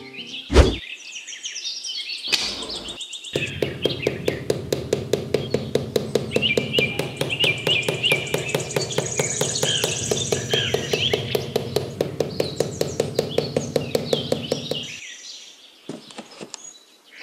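Birds chirping over a fast, even tapping that starts about three seconds in and stops shortly before the end, with a sharp thunk about half a second in.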